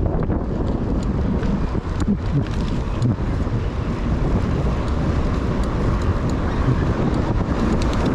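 Wind rushing over the microphone of a camera riding along on a bicycle, a steady deep rumble with a few faint clicks.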